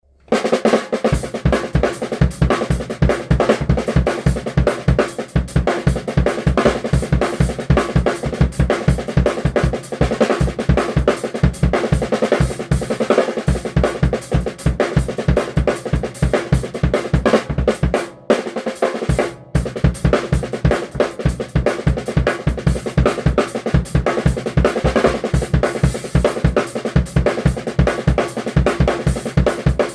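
Drum kit played in a busy, driving groove, with rapid bass drum hits under snare, hi-hat and cymbals. The playing stops dead twice, very briefly, just past the middle.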